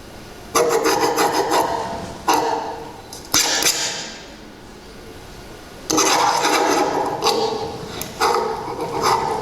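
Rasping, scraping sounds played over the stage speakers as a dance soundtrack. About five of them each start abruptly and fade, with a lull in the middle.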